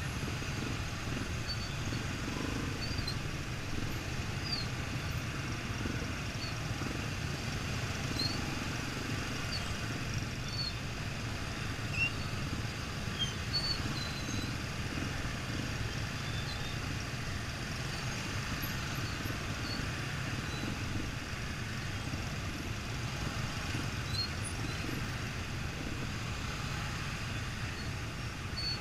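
Yamaha XTZ 125's single-cylinder four-stroke engine running steadily while riding, mixed with wind rushing over the microphone.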